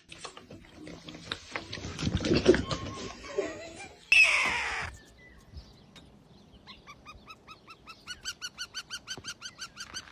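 A pet animal's sounds: crackly clicking noise, a loud short cry just after four seconds in, then a fast run of repeated high chirps, about five or six a second, near the end.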